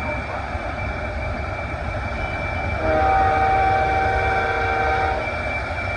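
A multi-tone air horn of the train-horn kind sounds one chord-like blast of about two seconds, about halfway through. Under it a jet engine runs steadily with a constant high whine and a low rumble.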